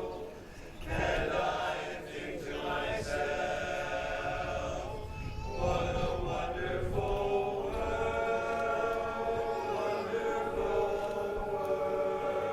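A cappella chorus singing sustained chords, the harmony held and shifting a few times.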